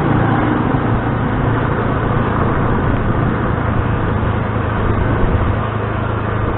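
Motor scooter running steadily while riding along a town street, with the engine's low hum under road and traffic noise.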